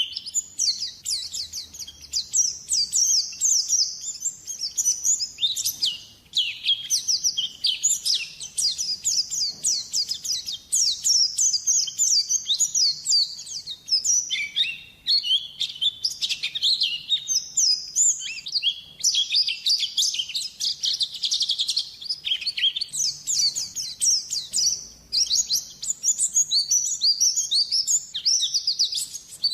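White-eye (pleci) singing a rapid, unbroken high twittering song of quick chirps and trills, as used in a lure-call recording. It breaks off briefly about six and fourteen seconds in.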